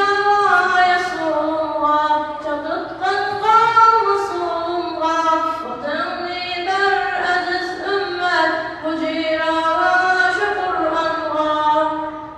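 A child's high voice singing a nasheed unaccompanied, in long held and gliding notes; the singing stops shortly before the end.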